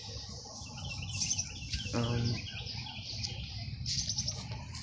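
Small birds chirping: a run of quick high chirps about a second in and a rapid high trill near the four-second mark, over a low steady rumble.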